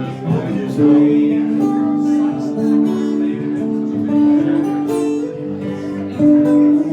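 Acoustic guitar strumming chords, with a melody of long held notes over it, in a live folk-country performance.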